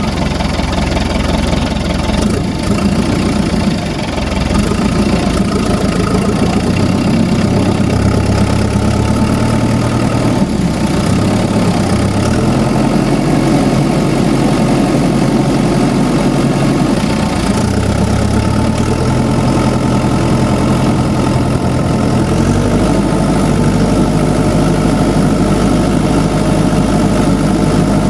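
Diesel farm tractor engine idling steadily; its low note shifts a few times and then settles into an even tone for the last few seconds.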